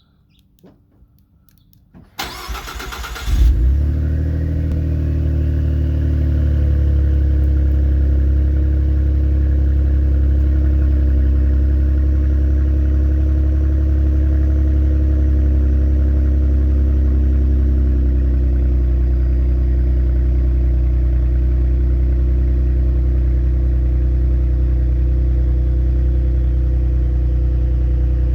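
Car engine cranked by its starter for about a second, catching about three and a half seconds in with a brief rev, then idling steadily with a low exhaust note.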